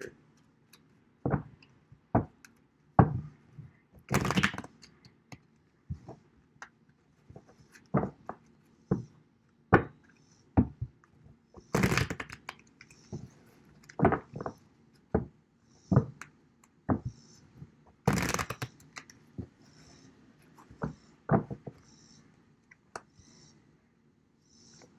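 A deck of tarot cards being shuffled and handled, with many sharp irregular taps and knocks of the cards against a table and a few longer, louder bursts of shuffling.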